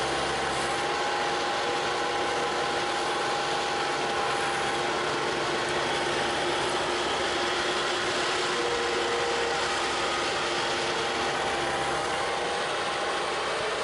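Bobcat T300 compact track loader's diesel engine running at a steady speed, with a few steady tones over the engine noise and no change in load.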